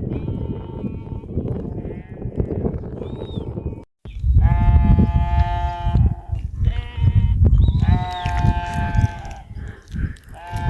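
Small livestock bleating: a series of high, drawn-out calls, each about a second long, with a rumbling noise underneath. A sudden break comes about four seconds in.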